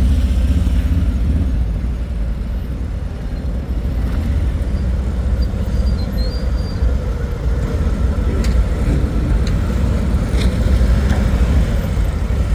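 Motorcycle engine running at low revs with a steady low rumble, easing off slightly and picking up again, as the bike is ridden slowly through a tight cone course.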